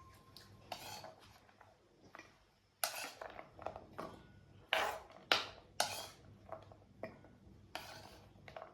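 Dishes and metal utensils clinking and knocking in a kitchen: a string of about ten separate knocks and clinks, the loudest few in the middle, some ringing briefly.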